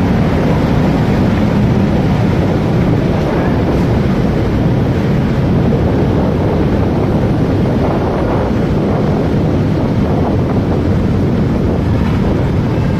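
Steady wind noise on the microphone of a moving motorcycle, with road and vehicle noise underneath.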